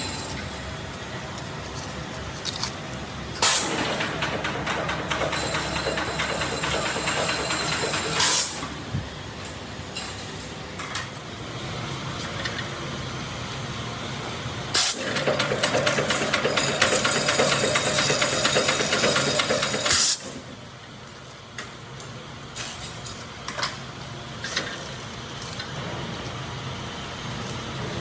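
Tyre-factory machine venting with two loud hisses, each about five seconds long, starting and stopping abruptly, over a steady machinery hum.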